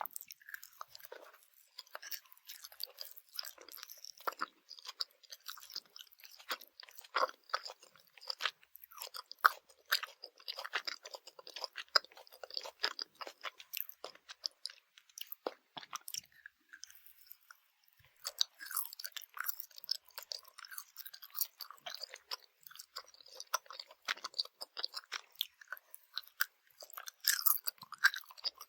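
Close-miked chewing of Swedish gummy candy: dense, irregular squishy chewing with crisp, crackly bites, briefly pausing about two-thirds of the way through.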